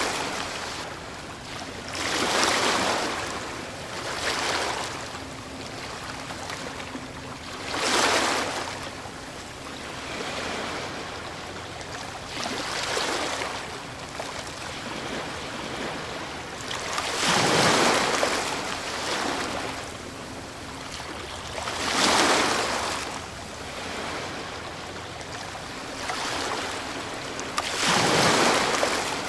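Ocean waves breaking on a shore: the surf rushes in and falls away every few seconds, with the heaviest crashes about a third of the way in, twice more after the middle, and near the end.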